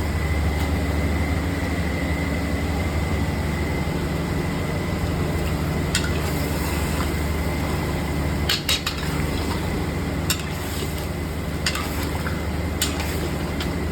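A metal utensil clinks against a cooking pan a handful of times while food is stirred, over a steady low rumble.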